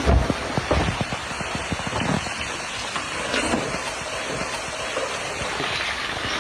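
A landslide coming down: a steady rushing noise with many short low knocks of tumbling rock and debris, thickest in the first second.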